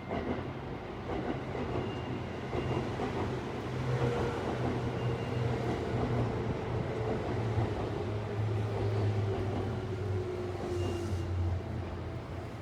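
Seibu Line electric train running past, a continuous rumble with a whine that slowly falls in pitch through the middle of the passage.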